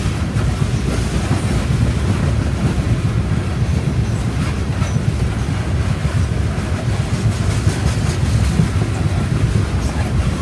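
Coal hopper cars of a freight train rolling past on the rails: a steady, even low rumble of steel wheels on track.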